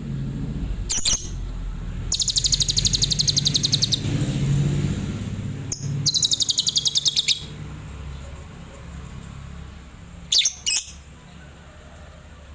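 Adult lovebird singing rapid, high-pitched trilled bursts (the 'tembakan' style): one trill of about two seconds and a second of about a second and a half, with short sharp calls before and after, over a low rumble in the first half.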